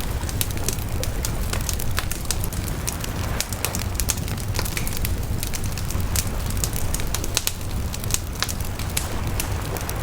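Wood fire burning with frequent irregular crackles and pops over a steady low rumble of the flames.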